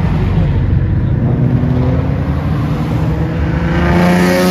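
Cars accelerating hard past on a road, ending with an S197 Ford Mustang's engine revving up, rising in pitch and growing louder as it comes past, loudest near the end.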